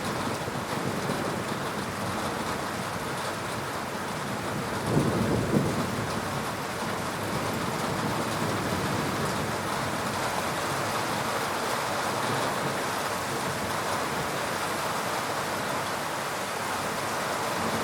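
Steady rain falling during a thunderstorm, with a brief low rumble of thunder about five seconds in.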